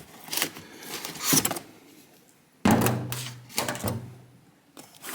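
Objects handled on a workbench: a couple of light knocks, then a loud thunk about two and a half seconds in, followed by a low hum that fades over about two seconds.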